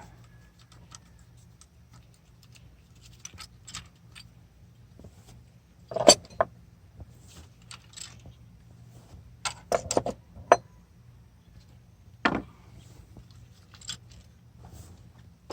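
Metal engine parts and hand tools clinking and clanking against each other, with scattered light clicks and a few louder clanks about six, ten and twelve seconds in.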